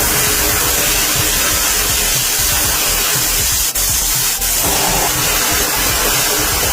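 A loud, steady spraying hiss of pressurised air or liquid, strongest in the highs, with a brief break about three and a half seconds in.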